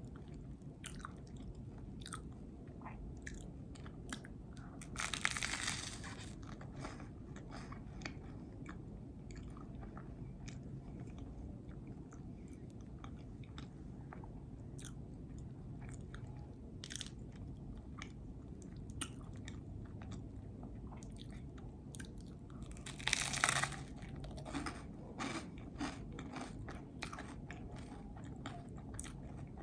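Close-miked chewing of a peanut butter and jelly sandwich: many small wet mouth clicks over a steady low hum, with two louder bites about five seconds in and again near the end.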